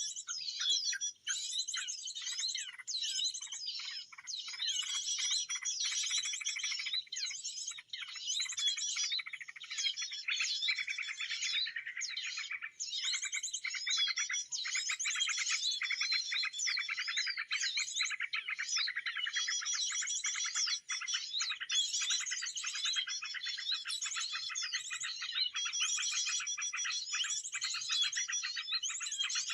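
Small songbirds chirping and trilling rapidly without a break, many calls overlapping into a dense high-pitched chorus.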